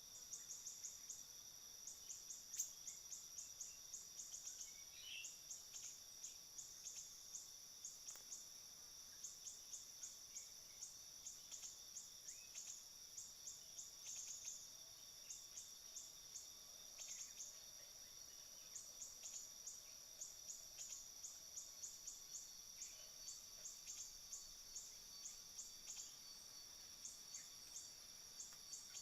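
Faint runs of quick, high chirps repeated several times a second with short pauses between runs: a recorded siri-siri bird call played from an MP3 player as a trapping lure. A steady high insect drone runs underneath.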